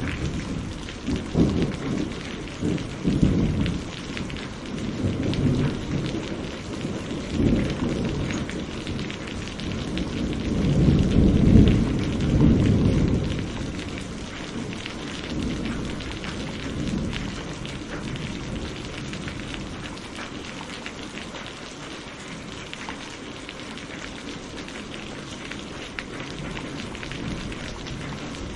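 Steady rain with thunder rumbling through the first half, swelling to its loudest about eleven seconds in, then easing off to rain alone.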